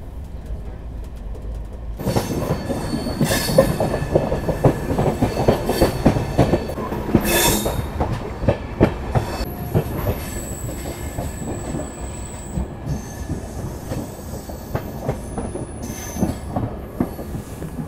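Passenger train coaches running over the track, heard from an open coach door: the wheels clatter and knock over rail joints and points, with thin high squeals from the wheels now and then. For the first two seconds there is only a low steady rumble from inside the coach, and then the clatter starts.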